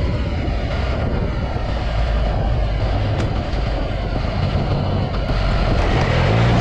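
Yamaha XSR900 inline-three engine running steadily through an Akrapovic carbon full exhaust while the bike is ridden, with wind noise over the helmet or bike-mounted microphone.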